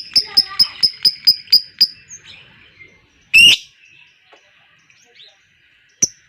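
Lovebird 'ngekek' chatter: a fast run of sharp, high chirps, about four a second, that breaks off about two seconds in. One loud squawk comes near the middle, a few soft chirps follow, and the fast chattering starts up again at the very end.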